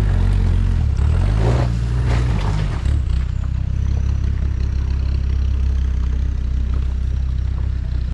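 A 4x4's engine running and revving as it works along a rough lane, its pitch rising and falling, with clattering and scraping between about one and three seconds in.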